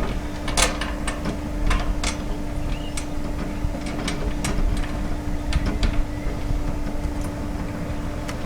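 Irregular metal clicks and clinks of bolts being started and tightened in a metal coop frame, over a steady low hum.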